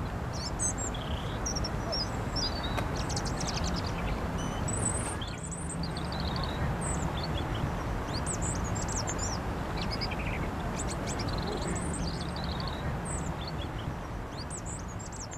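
European robin singing: many short, varied, high-pitched phrases with brief pauses between them, over a steady low rumble.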